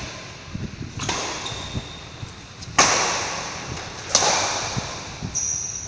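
Three sharp hits, a second or two apart, each followed by a long echoing fade, as in a large hall; the second is the loudest. A faint high steady tone starts near the end.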